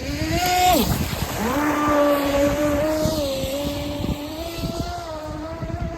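UDI022 RC speedboat's electric motor whining at speed across the water. It is throttled off sharply about a second in, then powers back up and holds a fairly steady pitch.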